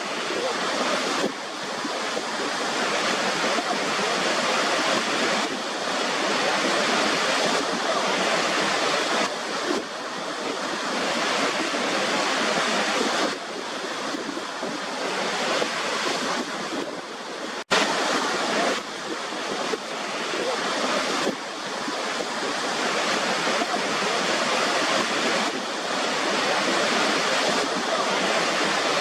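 Waterfall: a continuous rush of falling water that swells and eases every few seconds. The sound cuts out for an instant about eighteen seconds in.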